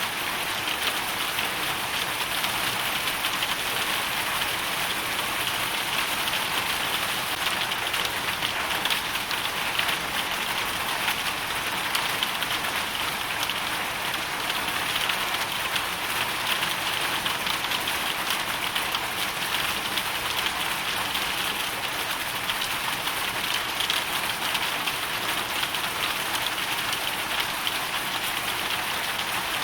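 Hailstorm: hail and rain falling in a dense, steady patter of countless small impacts.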